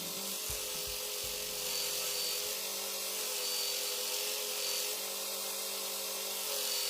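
Steady rubbing noise of a tool working material, with an even hiss and a steady hum underneath.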